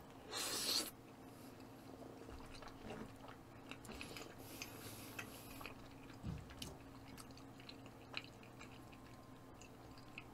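A person quietly chewing bluefin tuna sashimi, close to the microphone, with faint soft mouth clicks. A short burst of hiss about half a second in.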